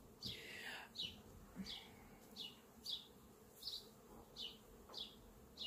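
A bird calling over and over, faint: short high notes, each dropping in pitch, about two a second, with one longer falling note near the start.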